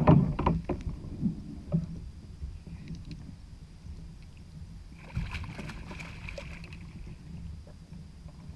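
Sea kayak on open ocean water: a steady low rumble of wind and water against the hull, with a few knocks in the first second and a stretch of hiss about five to seven seconds in.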